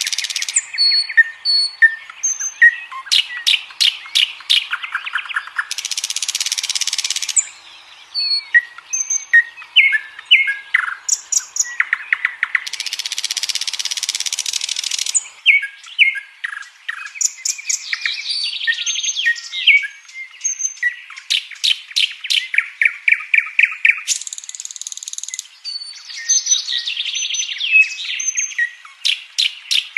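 Nightingale singing a varied song: rapid runs of repeated notes and short clear whistles, broken by harsh buzzy bursts about every six to ten seconds.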